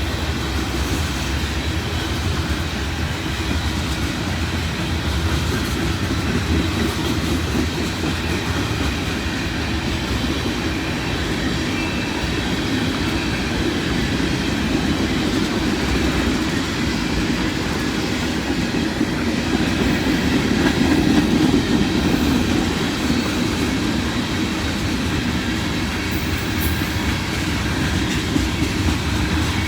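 Freight train cars rolling past, a steady rumble with the wheels clicking over the rail joints, swelling slightly about two-thirds of the way through.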